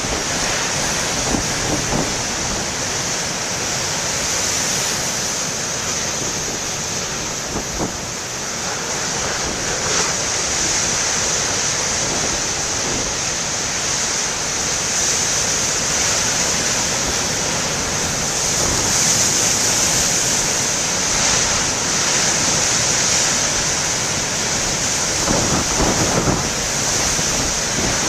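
Heavy storm surf breaking on a rocky shore, a continuous rush of water mixed with strong wind buffeting the microphone. The rush swells somewhat past the middle, with a few low wind thumps near the end.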